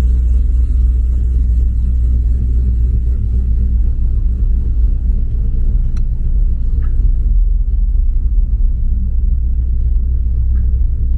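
Steady low vehicle rumble: an engine running at an even pace, with a few faint clicks about six and seven seconds in and again near the end.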